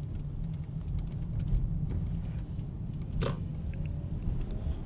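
Car cabin noise while driving: a steady low rumble from the engine and tyres, with a few faint clicks and one short sharper sound about three seconds in.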